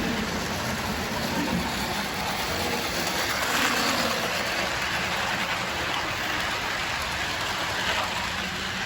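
HO-scale model train running on Kato track: a steady running noise of wheels on rail and the locomotive's motor.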